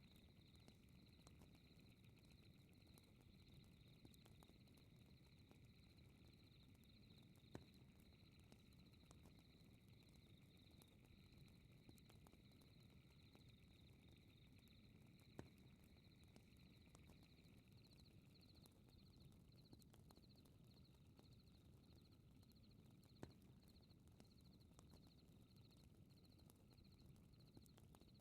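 Faint fireplace crackling with a low rumble and three sharp pops about eight seconds apart, under a steady high-pitched pulsing trill of night insects. One of the trills stops about two-thirds of the way through.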